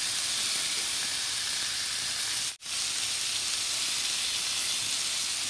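Raw seasoned shrimp sizzling in canola oil in a hot skillet, a steady hiss. The sound cuts out for an instant about halfway through.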